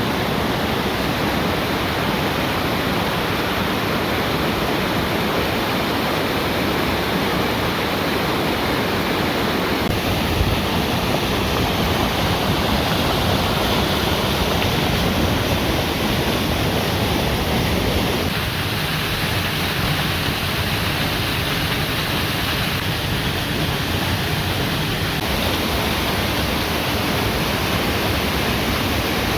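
Waterfall: a loud, steady rush of falling water whose tone shifts slightly about ten seconds in and again near eighteen seconds.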